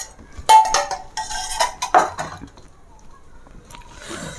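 Spoon clinking and scraping against metal plates and bowls. Several ringing clinks come in the first two seconds, then fainter scraping.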